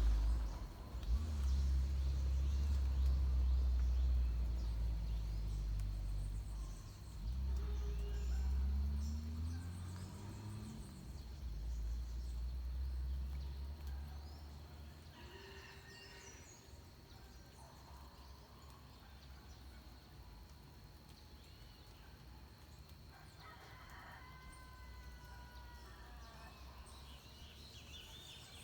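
Birds calling at dawn in the forest: scattered calls, one a call of several stacked notes about two-thirds of the way through, with high chirps near the end. A low rumble fills the first half, then fades out.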